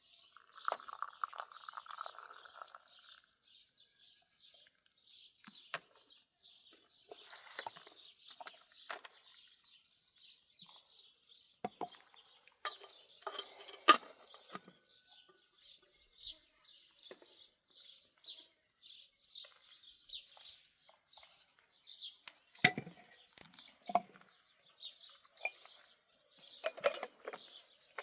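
Small birds chirping continuously, with a few scattered sharp knocks, the loudest about halfway through.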